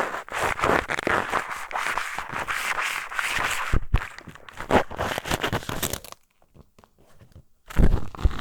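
Close-up ASMR ear cleaning with a pair of eyeglasses: quick, scratchy rubbing and scraping strokes in the ear. The strokes stop for about a second and a half near the end, then resume louder and fuller.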